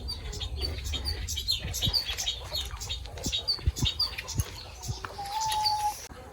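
Birds chirping in many short, high, repeated notes, with a few sharp knocks among them and a brief steady tone about five seconds in.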